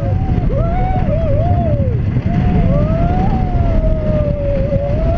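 Heavy wind rush on the microphone from a moving amusement ride, with a person's long screams over it that rise and fall several times.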